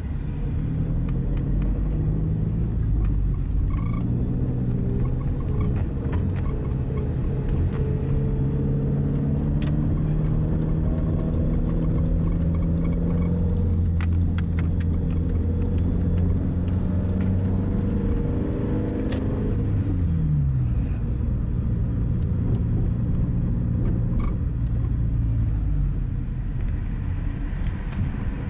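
Car engine and road noise heard from inside the cabin while driving. The engine note climbs through the middle, falls away in a short downward glide about twenty seconds in, then picks up again near the end.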